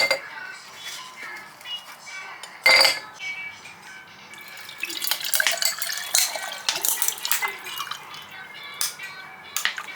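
Background music with clinks of cutlery against dishes: a loud ringing clink about three seconds in, then a flurry of lighter clinks and clicks a couple of seconds later.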